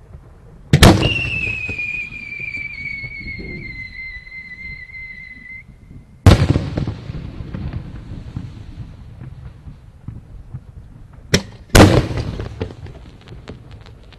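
Aerial firework shells bursting: three loud booms with long rolling echoes, about a second in, at about six seconds and near twelve seconds, the last just after a sharp crack. After the first boom a high whistling tone slides slowly downward for several seconds, and crackling follows the last boom.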